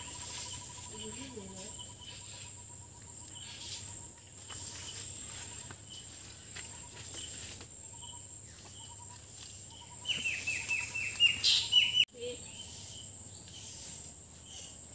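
Rural outdoor ambience: a steady high insect drone and a faint fast trill. About ten seconds in, a bird gives a quick series of loud chirps that climb in pitch, cut off suddenly two seconds later.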